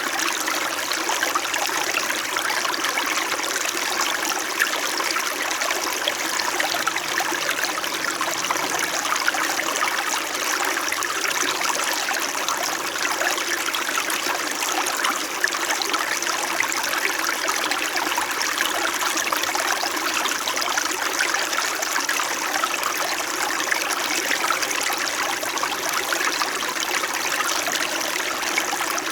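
Small mountain stream flowing gently, a steady babble and trickle of water over stones.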